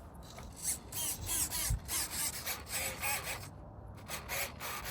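Irregular rubbing and scraping handling noises, a run of short scuffs and knocks with no steady motor sound.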